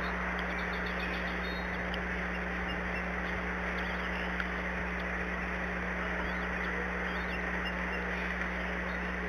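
Steady hiss and a constant electrical hum, with faint, short, high-pitched bird calls repeating now and then, at the start and again near the end.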